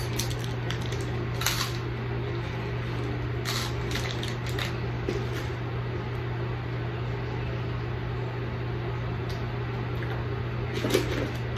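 Faint crunches and crackles from biting and chewing a chocolate-coated wafer candy, a few of them in the first five seconds, over a steady low hum.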